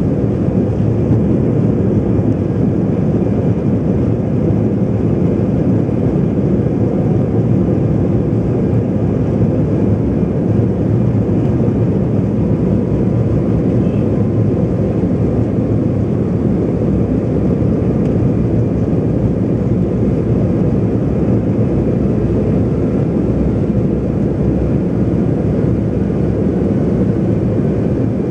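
Steady, loud engine and airflow noise heard inside the cabin of an Embraer 190 airliner in flight, a deep even rush with no changes.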